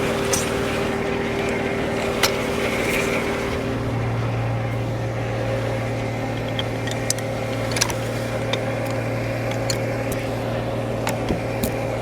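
Frick No. 1 sawmill and its power unit running steadily, a hum that grows a little stronger about four seconds in, with sharp clicks and knocks scattered throughout.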